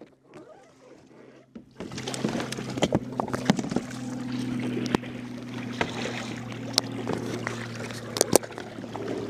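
Kayak paddling: paddles splashing and churning the water, with scattered sharp knocks and a steady low hum underneath. Nearly quiet for the first couple of seconds before the splashing starts.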